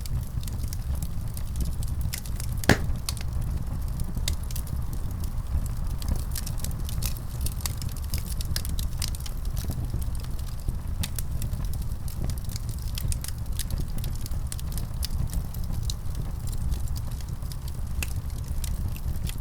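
Wood fire crackling steadily, with a low rumble under many small irregular pops and snaps and one louder pop a few seconds in.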